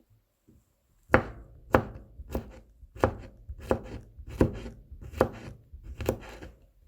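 Kitchen knife mincing garlic cloves on a cutting board. About eight separate chops start about a second in, roughly one every two-thirds of a second.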